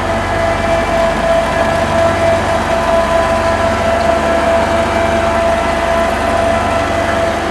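Road roller's diesel engine running steadily, a low drone with a steady high whine over it.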